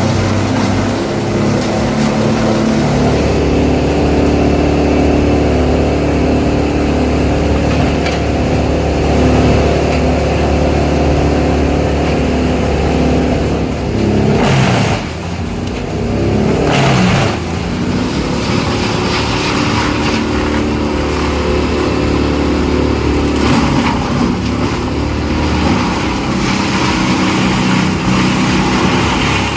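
Big engine-driven tree chipper, a Bandit 1990XP, running loud and steady. About halfway through, the engine note dips sharply in pitch and recovers, twice in quick succession.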